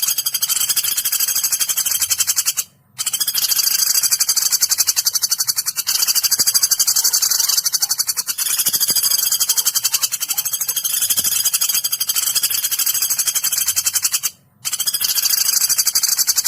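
Recorded woodpecker (pelatuk) calls used as masteran tutoring for songbirds: a high-pitched, very rapid trill, looped continuously with two short breaks, one about three seconds in and one near the end.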